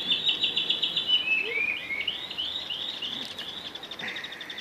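A songbird singing: a quick run of short high chirps, then several slurred notes, then a fainter rapid trill near the end.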